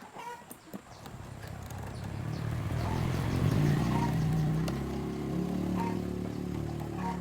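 A motor vehicle engine grows louder over the first three to four seconds, then runs on steadily.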